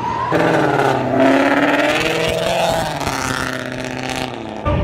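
A car engine revving hard and accelerating, its pitch climbing, then cutting off suddenly near the end.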